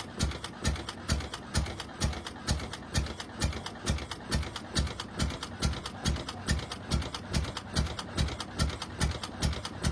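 1911 Brush Runabout's single-cylinder engine running slowly, with an even beat of about two low firing thumps a second and lighter mechanical clicking between them.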